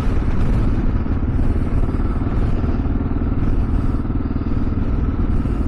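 Kawasaki KLR 650 S motorcycle's single-cylinder engine running steadily under way.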